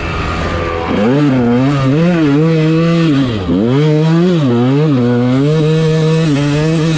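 Dirt bike engine revving up and down under riding load. It gets louder about a second in, and the revs drop sharply and climb back about three and a half seconds in.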